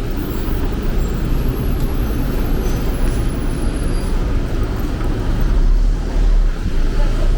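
Street traffic noise: a steady, loud low rumble of passing road vehicles.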